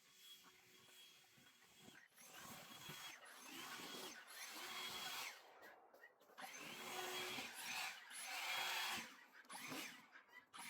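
Battery-powered garden tool's electric motor spinning up, holding speed briefly and winding down again, about five times in short bursts, with a rush of noise during each burst.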